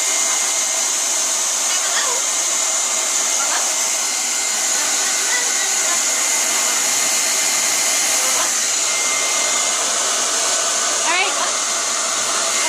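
Handheld hair dryer blowing steadily, a constant rushing whoosh with a faint high steady whine in it. A few faint short chirp-like glides sound over it.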